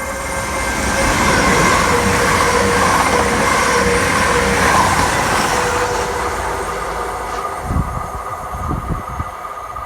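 Class 222 Meridian diesel multiple unit running through the station, its engine and wheel-on-rail noise with a steady tone swelling up, peaking around halfway, then fading as it goes by.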